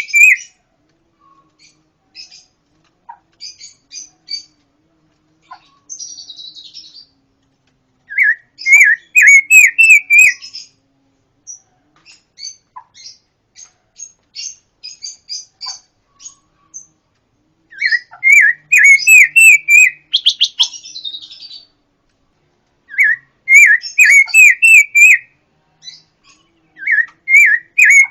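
A pancawarna songbird singing: loud phrases of fast repeated ringing notes come about every five seconds, with scattered short chirps and a couple of brief raspy buzzes in between.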